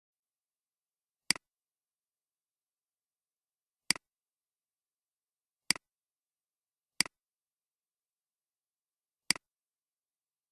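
Computer mouse button clicking five times at irregular intervals, each click a sharp press followed at once by a softer release.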